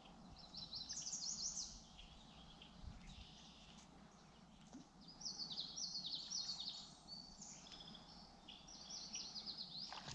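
Songbirds singing in three bouts of quick, high, descending note series: about a second in, again from about five to seven seconds in, and near the end.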